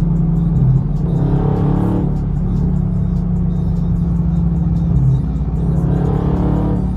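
Music playing inside a car over the steady low drone of a Dodge Scat Pack's 6.4-litre HEMI V8 running in slow traffic.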